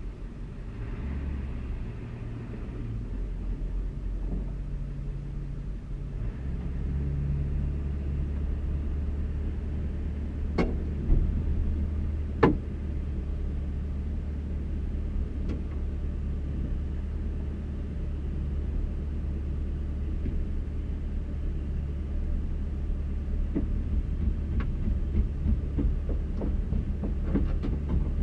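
Diesel pickup engine idling steadily after a cold start, with its exhaust back-pressure valve engaged to warm it; the low drone deepens and steadies about six seconds in. Two sharp knocks stand out near the middle.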